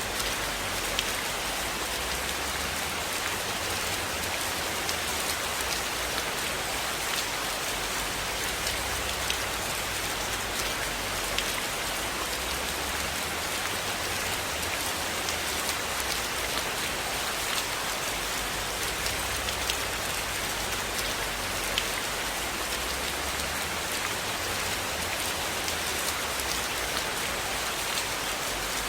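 Steady rain falling on a roof, an even hiss dotted with scattered sharp drop ticks.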